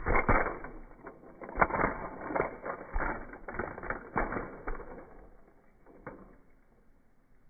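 A series of irregular knocks and clatters, loudest at the start and thinning out over about six seconds.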